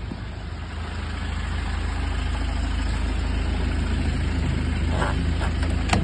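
Motor vehicle engine running steadily at idle, a low drone with a few light knocks near the end.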